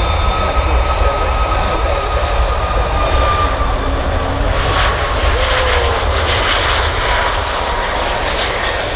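Boeing 737 MAX 8's CFM LEAP-1B jet engines at takeoff power as the airliner departs: a loud, steady jet noise with a deep rumble and a thin high whine that slowly drops in pitch. A crackling edge comes into the noise about halfway through.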